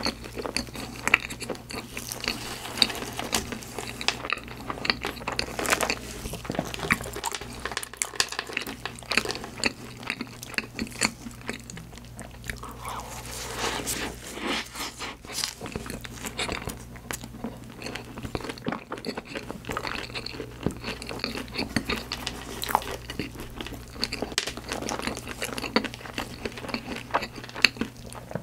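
Mouth sounds of eating profiteroles (choux cream puffs) topped with set white chocolate, chocolate chips and sliced almonds: chewing with frequent, irregular crisp crunches.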